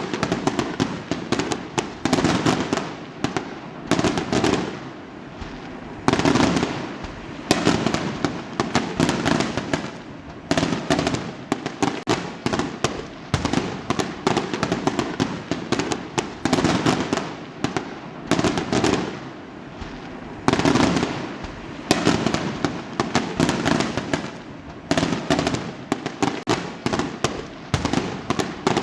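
Fireworks going off in quick succession: bangs followed by crackling, with a fresh burst every one to two seconds.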